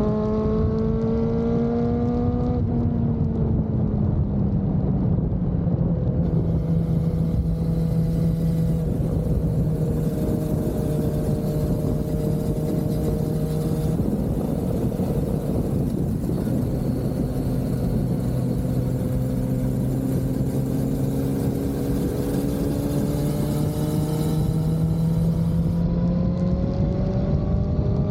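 Honda CB400SF's inline-four engine under way, its pitch climbing through the revs and dropping sharply at gear changes, about two and a half seconds in and again around the middle, over a heavy rush of wind and road noise.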